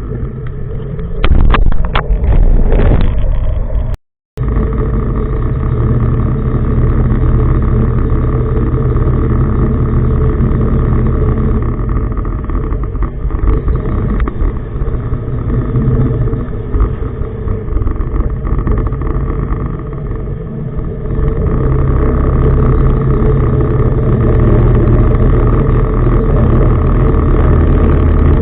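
Tugboat engines running steadily with a loud, deep drone, with a few sharp knocks in the first few seconds and a brief dropout about four seconds in.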